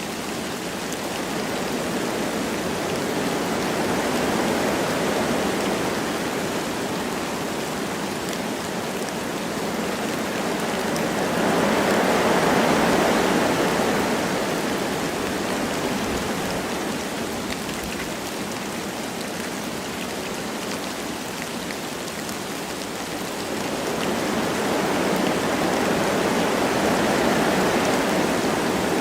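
Wind blowing through forest trees with light rain, a steady rushing noise that swells in slow gusts three times.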